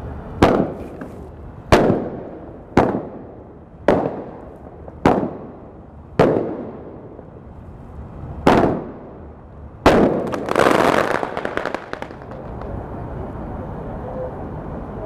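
A multi-shot consumer firework firing its charges one after another: eight sharp bangs, about one a second, with a longer pause before the last two. The last bang is followed by about two seconds of crackling.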